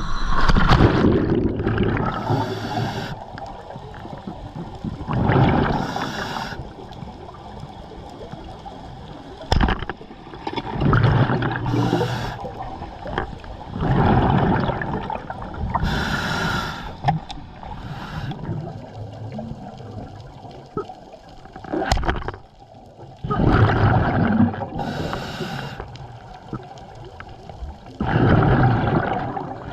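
Scuba diver breathing underwater through a regulator: slow, regular breath cycles a few seconds apart, each a rushing inhale and a gurgling exhale of bubbles.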